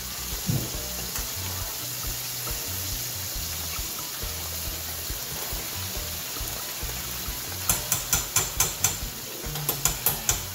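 Chicken pieces deep-frying in hot grease in a pot: a steady sizzle, with a quick run of sharp crackles about eight seconds in and a few more near the end.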